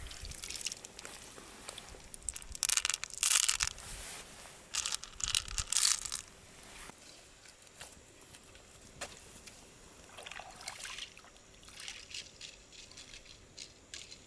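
Wet, crunchy handling of clam shells and flesh, in two louder bouts of crackling and squelching followed by softer scattered clicks and scrapes.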